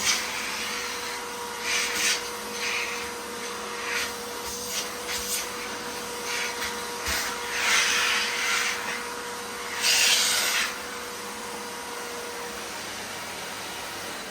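Miele vacuum cleaner running with a steady motor whine and rushing suction. Louder bursts of rushing noise come every second or two as the nozzle is worked over the floor, picking up crunchy debris. The whine drops out about two seconds before the end.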